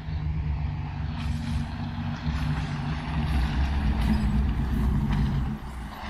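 Jeep engine running with a steady low rumble that swells and eases, under a broad hiss.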